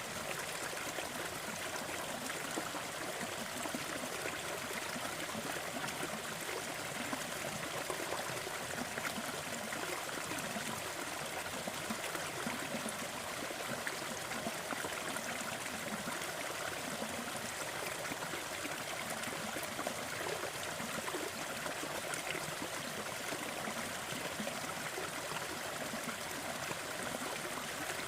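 Steady, even rushing noise with faint scattered crackles: a crackling fire blended with a continuous sleep-noise track.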